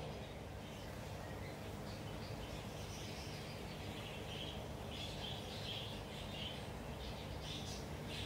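Small birds chirping in short, repeated calls, more often in the second half, over a steady low background hum.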